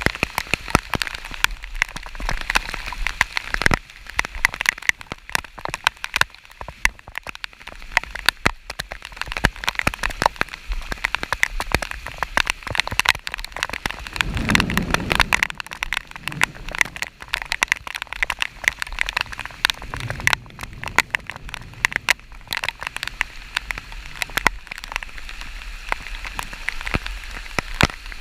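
Heavy rain, with many drops tapping sharply and irregularly close to the microphone. A brief low rumble comes about halfway through.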